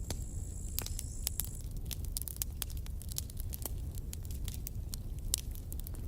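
Campfire burning: wood crackling with many sharp, irregular pops over a steady low rumble. A faint high whistle sounds during the first second or so.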